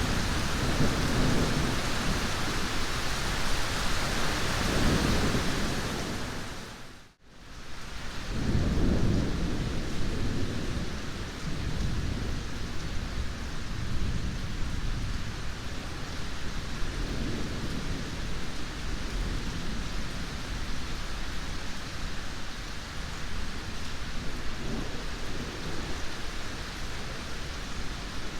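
Steady heavy rain with rolling thunder rumbling low beneath it, strongest in the first ten seconds and weaker later. About seven seconds in, the whole sound fades out briefly and straight back in.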